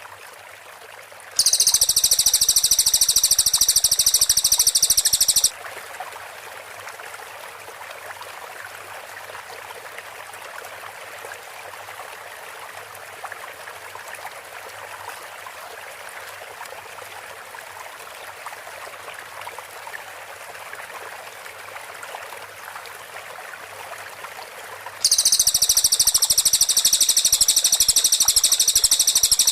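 Cililin bird singing its rapid-fire 'tembakan' song: a dense, fast trill of high notes in two loud bursts of about four seconds, one near the start and one near the end. A steady faint hiss lies under it between the bursts.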